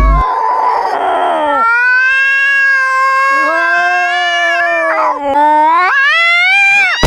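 A pet's long, drawn-out howl. It starts high and slides down, and a second, lower tone joins about three seconds in. It rises again near the end and breaks off.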